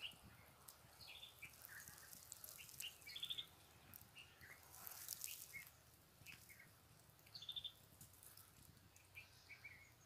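Faint birds chirping in short high calls, with a quick trill about three seconds in and again about seven and a half seconds in; otherwise near silence.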